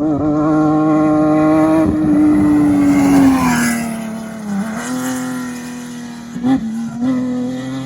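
A desert race vehicle's engine at high revs passes close by about three seconds in, its pitch falling as it goes away, followed by another engine note held steady.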